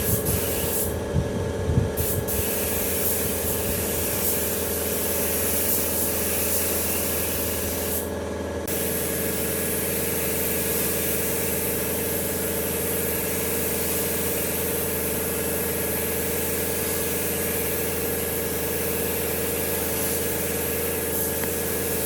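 Steady hiss of compressed-air spraying over a constant machine hum. The hiss cuts out briefly about a second in and again around eight seconds.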